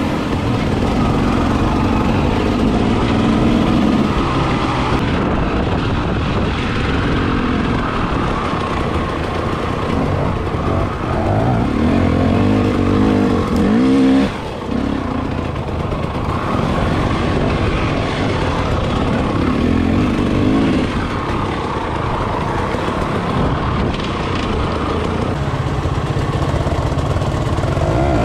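Enduro motorcycle engine running under way, its pitch rising and falling repeatedly as the throttle opens and closes. About halfway through it eases off briefly.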